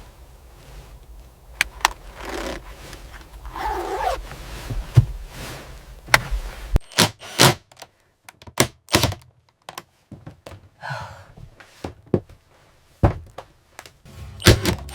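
A series of sharp clicks and knocks, irregularly spaced, with a few short scraping sounds, like parts being handled and fitted. A low hum underneath cuts off suddenly about seven seconds in.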